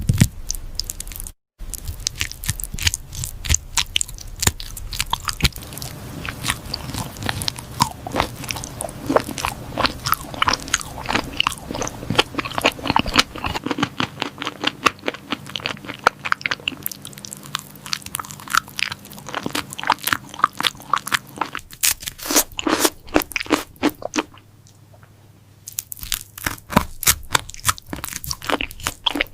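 Close-up crunchy eating sounds: rapid, repeated biting and chewing of crisp food, mukbang-style. There is a short lull about three-quarters of the way through before the crunching picks up again.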